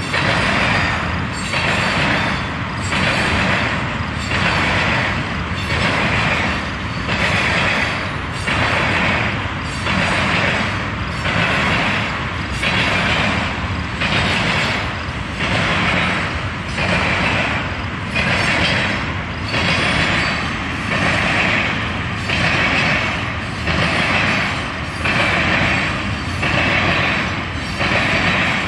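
Freight train of tank cars rolling past, its wheels on the rails making a loud, steady rushing noise that swells and fades about once a second.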